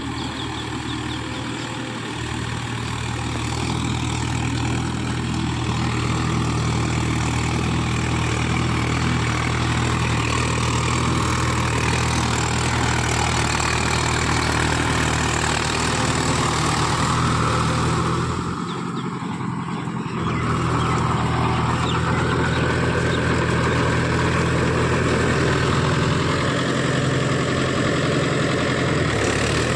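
Mahindra Yuvo Tech+ 575 DI tractor's diesel engine running steadily while driving a Shaktiman rotavator. It drops off briefly about two-thirds of the way through, then picks back up to the same steady level.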